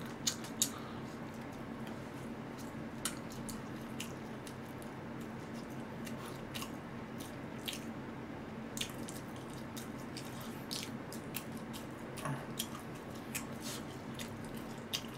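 Faint, close-up chewing of jokbal (braised pig's trotters), with small wet mouth clicks and scattered light ticks over a low steady hum.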